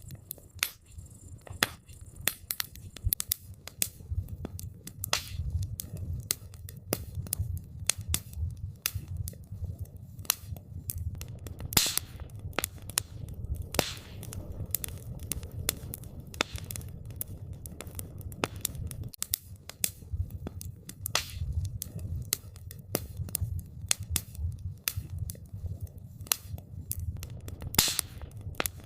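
Wood campfire crackling: irregular sharp snaps and pops of burning wood, a few louder than the rest, over a low steady rumble of the flames.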